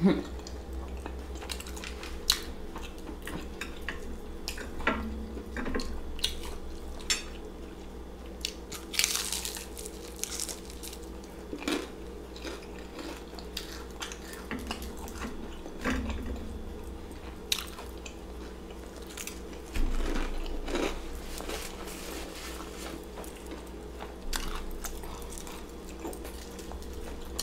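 Close-up crunching and chewing of battered deep-fried king crab: irregular crisp bites scattered through, with quieter chewing between them.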